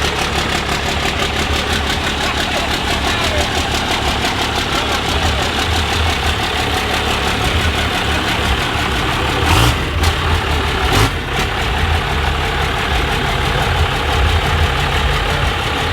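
Truck engines idling steadily. Two short bursts of hissing noise cut in at about nine and a half seconds and again at about eleven seconds.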